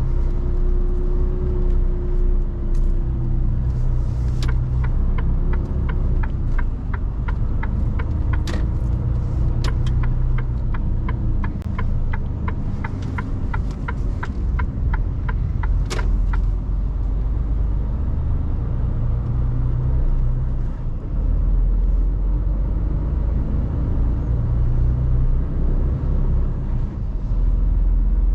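Mercedes Actros truck's diesel engine running with a steady low rumble, heard from inside the cab while driving. For about twelve seconds in the middle, an even ticking at about two a second sounds over it.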